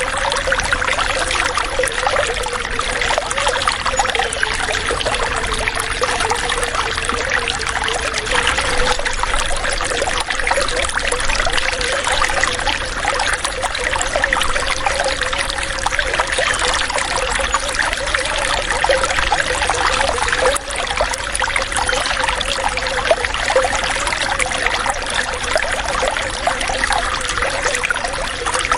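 Running water trickling and splashing steadily, like a small stream or a pouring flow, with a constant bubbling hiss.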